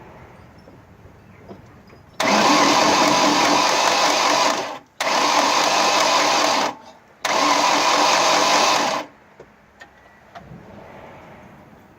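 1998 Ford Escort engine turning over on the starter in three bursts of about two seconds each, never catching: the engine cranks but does not start.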